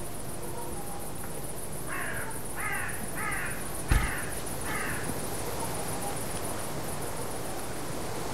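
A bird gives five harsh cawing calls in quick succession, about two seconds in. A steady high insect chirring runs underneath. A single dull thump, the loudest sound, comes about four seconds in.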